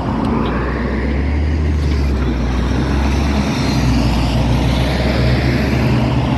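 LiAZ 6213.65 articulated city bus running on its diesel engine. The low engine note changes about halfway through and is followed by a rising whine, as the bus drives on.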